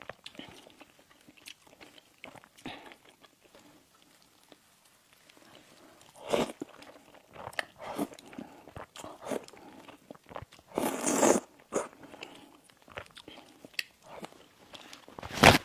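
Close-miked eating of pastries and sweets: scattered small mouth clicks and chewing, broken by louder crunching bites, one longer crunch about eleven seconds in and the loudest near the end.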